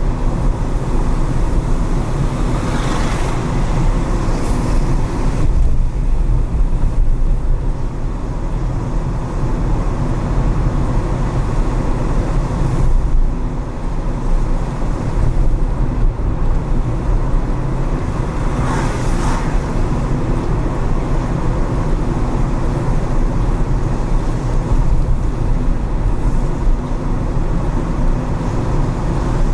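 Car driving on wet city streets: a steady low rumble of engine and road noise, with two brief swells of hiss, about three seconds in and again around nineteen seconds in.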